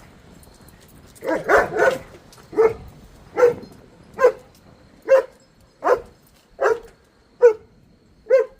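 A dog barking: a quick run of barks about a second in, then single sharp barks repeated evenly, a little more than one a second.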